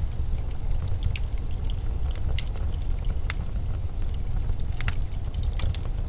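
Blizzard wind as a steady low rumble, with scattered light crackles and ticks throughout.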